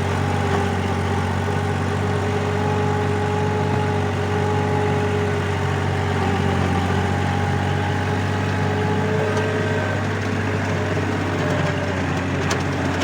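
Four-wheel-drive tractor engine running steadily while working a rotavator through deep mud, a constant low drone with a few faint clicks near the end.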